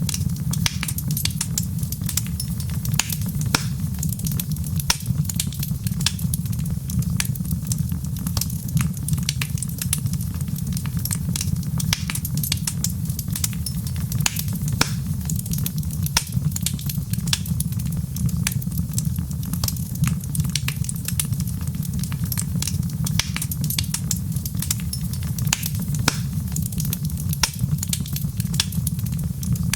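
Wood fire crackling steadily in a fireplace, with frequent sharp irregular pops and snaps over a low, even rumble.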